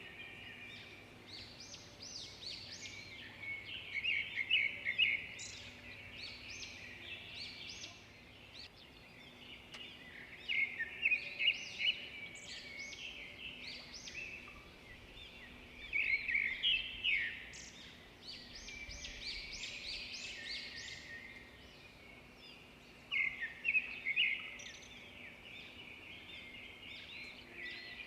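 Songbirds singing and chirping steadily, with a louder burst of rapid trilled notes about every six or seven seconds.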